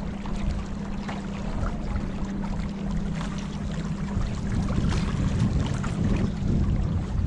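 Water splashing and trickling against a small boat, with many small splashes over a steady low rumble.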